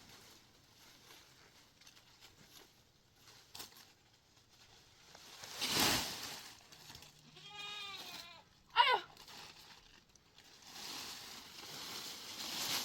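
Goats bleating: one wavering bleat about seven seconds in, then a short, sharp, louder bleat just after. Rushing noise swells around six seconds in, and a steady hiss picks up near the end.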